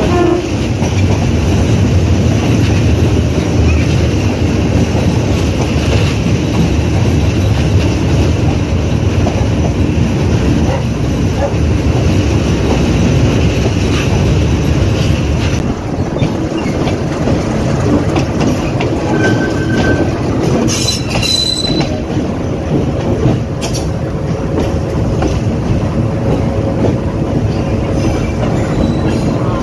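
Metre-gauge passenger train heard from aboard a coach, its wheels running steadily on the rails. Brief high squeals come in a little past two-thirds of the way through.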